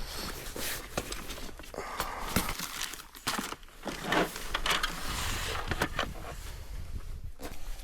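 Camping gear being handled: irregular rustling and crinkling of bags or fabric, with scattered clicks and knocks.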